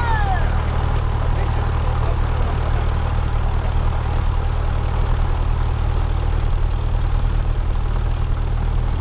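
Cessna 172R's four-cylinder Lycoming engine and propeller idling on the ground: a steady, unchanging drone with no change in power.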